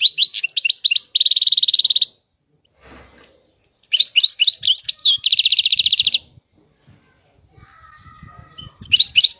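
European goldfinch singing: quick bursts of high, twittering notes sliding up and down, the first two ending in a rapid buzzy trill. The phrases come three times, with short pauses between them, the last starting near the end.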